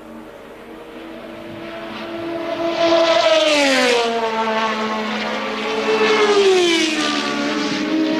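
1983 Formula One cars at racing speed, two passing close by one after the other about three and a half and six and a half seconds in, each engine's pitch dropping sharply as it goes past, over a steady engine drone.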